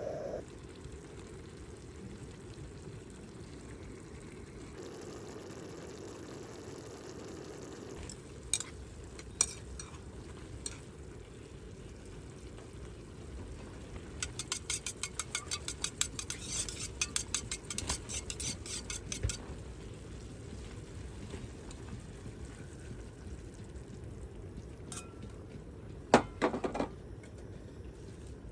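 Cooking-utensil sounds against a pot or pan: a few separate clinks, then a quick run of rapid clinks for about five seconds, like stirring or whisking, and a couple of louder knocks near the end.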